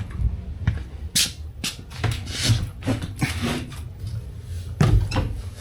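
Irregular handling noises: scattered knocks with short scrapes and rustles, and no tool running.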